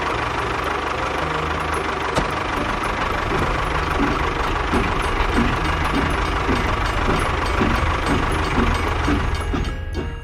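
Tractor engine running steadily with a low rumble and a soft chugging pulse about twice a second.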